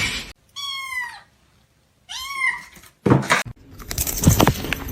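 A cat meowing twice: a falling call, then an arched, rising-and-falling one. About three seconds in, a jumble of knocks and rustling noise takes over.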